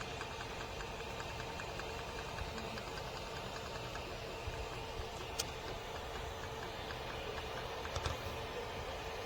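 A 50 mm 24 V 5015 radial blower fan running steadily: an even rushing whir with a steady hum tone, and two brief clicks about five and eight seconds in.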